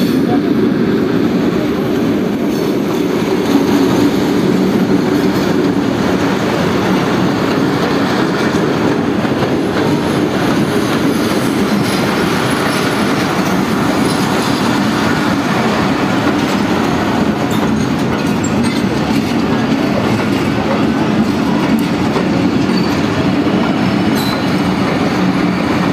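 Passenger coaches of a Pakistan Railways express train rolling past at close range as it pulls into the station, the wheels running on the rails in a loud, steady rumble.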